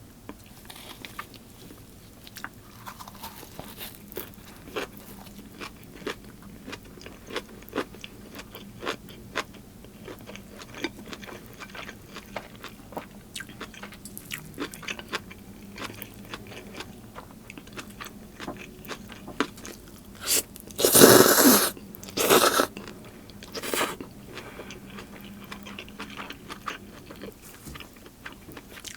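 Close-miked eating: steady chewing with many small crunches and bites. About two-thirds of the way through come three much louder, noisy bursts close together, the first the longest.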